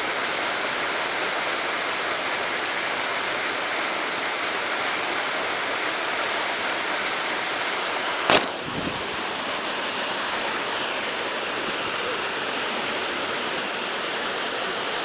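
Waterfall rushing, a steady even noise of falling water. A single sharp click about eight seconds in.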